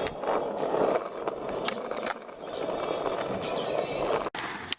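Skateboard wheels rolling over concrete with a steady rumble, broken by a few sharp clacks of the board. The sound cuts off abruptly near the end.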